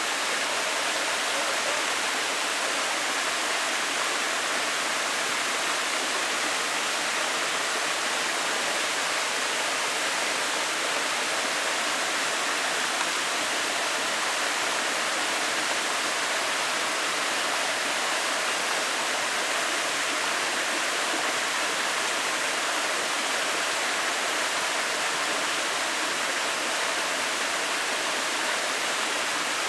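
Glacial meltwater waterfall splashing down in a steady, unbroken rush of water, mostly hiss with little deep rumble.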